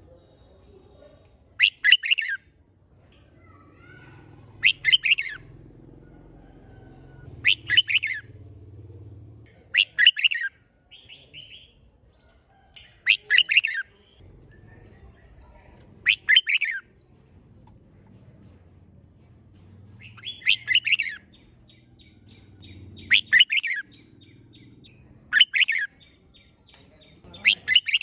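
Red-whiskered bulbul singing short, loud song phrases, about ten of them, one every two to three seconds.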